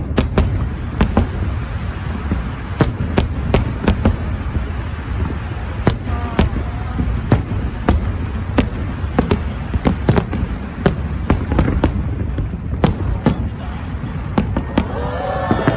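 Fireworks display: a rapid, irregular string of sharp bangs, several a second, over a continuous low rumble of distant bursts.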